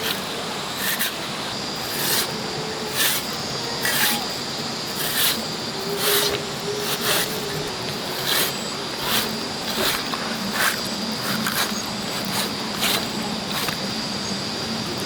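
A knife working on pork, a short rasping stroke about once a second over a steady hiss.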